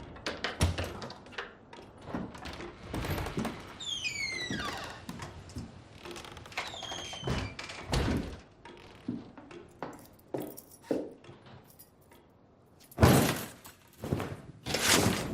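Door handling in a room: a run of knocks, clicks and thunks, with a short high squeak sliding down in pitch about four seconds in. It ends with two louder rushing thuds.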